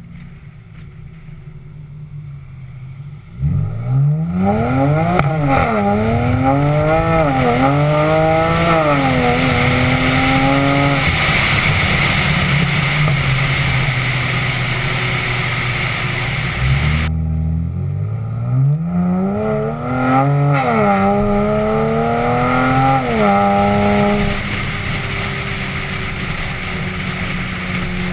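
BMW 335i's turbocharged inline-six through a 3.5-inch stainless steel aftermarket exhaust, accelerating hard twice, its pitch climbing and dropping back at each upshift, with road and wind noise between the pulls.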